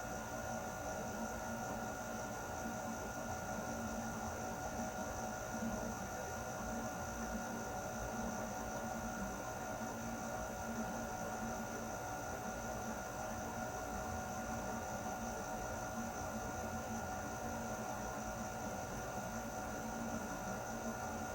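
Air conditioner running steadily: an even rush of air with a constant hum and a few steady tones over it.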